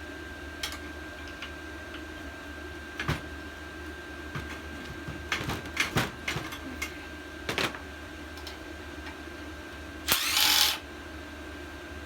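Hand tools clinking and knocking on metal as bolts are taken out of an edger's belt guard: scattered single clicks, a quick cluster in the middle, and one short rushing burst about ten seconds in, over a steady background hum.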